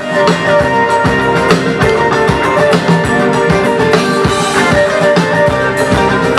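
Live rock band playing a song's instrumental intro: electric guitars and sustained melodic lines over a steady drum-kit beat, loud and continuous.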